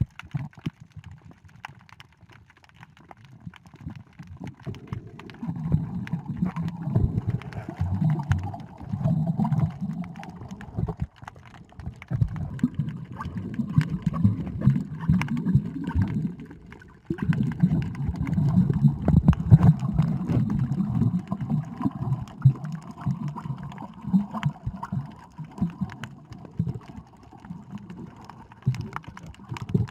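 Muffled water sloshing and gurgling around a camera in the sea, coming in uneven surges with many small knocks.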